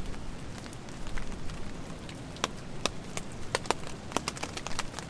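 Raindrops and drips tapping irregularly on a tarp overhead, several sharp taps a second over a steady low rain noise.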